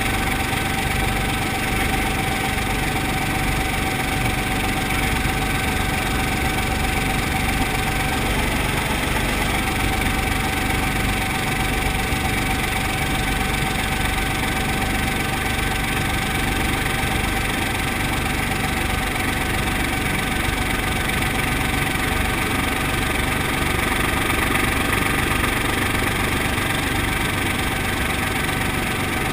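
Brantly B2B helicopter's piston engine and rotor drivetrain running steadily, an even drone with a steady whine through it.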